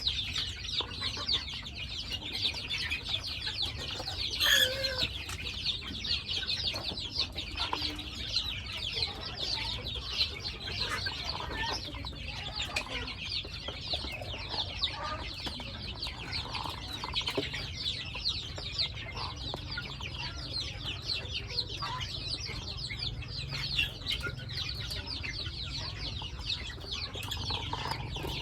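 A flock of chickens clucking and chirping without a break, a dense chatter of many birds, with one louder falling call about four seconds in. A steady low rumble runs underneath.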